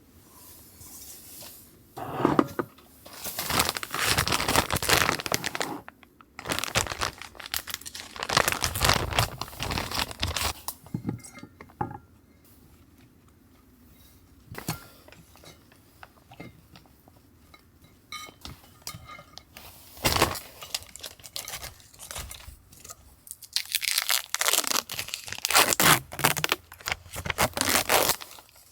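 Rustling, crinkling and tearing handling noise in several spells of a few seconds each, with quieter gaps between.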